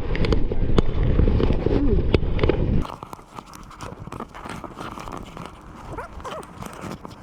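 Wind buffeting the microphone, a loud low rumble that cuts off abruptly about three seconds in. After that it is quieter, with irregular small knocks and clicks and faint voices.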